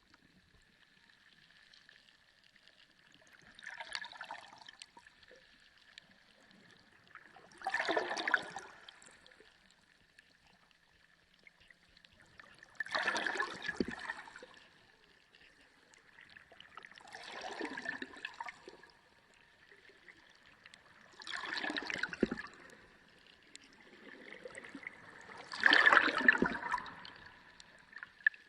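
Underwater sea sound: water surging and bubbling in six swells, one about every four to five seconds, each lasting a second or two, over a faint steady high tone.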